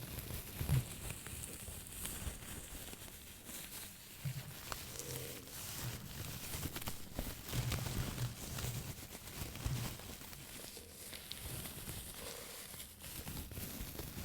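Close-miked handling of a small object: irregular taps, scratches and crinkly rustles with soft low thumps, uneven throughout.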